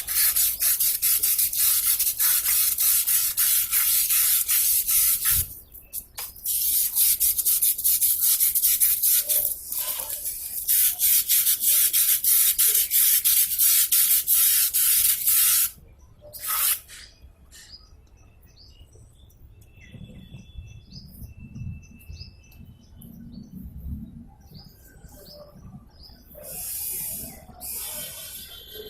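Sandpaper rubbed by hand over a part in quick back-and-forth strokes, in three bouts that stop about halfway through. Faint bird chirps follow.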